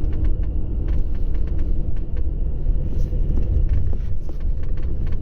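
Inside a car driving along a rough country lane: a steady low rumble of engine and tyres, with frequent short rattles and knocks.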